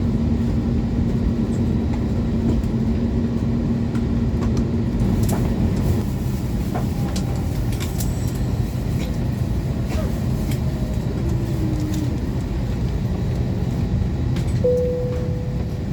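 Airbus A321neo cabin noise after landing: a steady low rumble with a held hum that stops about six seconds in, and scattered light clicks.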